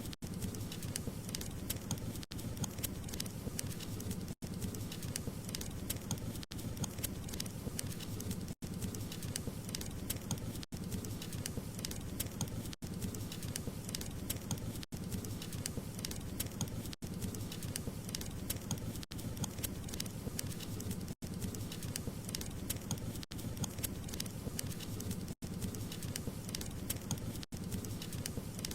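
Wood fire crackling: a steady low rumble of burning with many sharp crackles and pops, broken by very brief dropouts about every two seconds.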